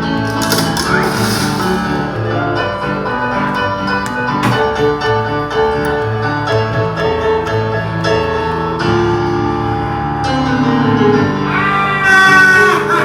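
Piano music playing a busy run of notes. A brief, loud, high gliding sound comes in near the end.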